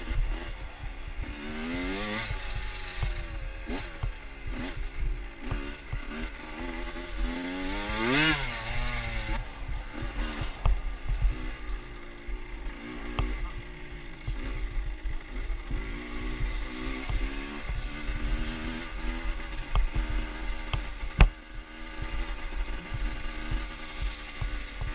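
Motorcycle engine being ridden, its pitch rising and falling again and again with the throttle, highest rev about eight seconds in, over a low wind rumble on the microphone. One sharp knock about 21 seconds in.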